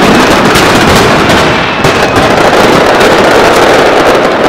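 Aerial firework shells bursting in a dense barrage, many at once, making a loud, continuous din of overlapping booms and crackles with no pause between them.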